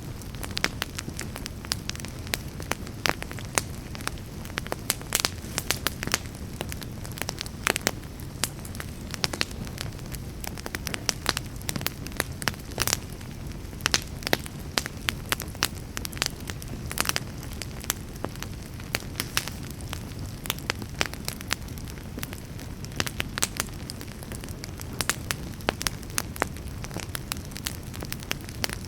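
Campfire burning with frequent sharp, irregular crackles and pops over a steady low rumble of flames.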